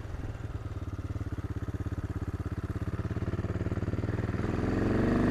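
AJP PR7's single-cylinder engine running at a steady, pulsing low pace on the trail. It picks up revs and gets louder near the end.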